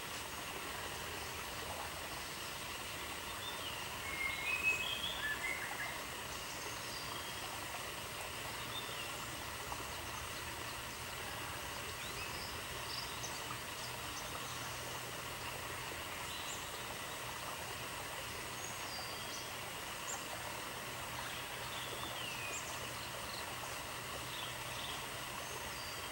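Steady outdoor nature ambience, an even hiss with scattered short chirping calls, the loudest cluster about four seconds in.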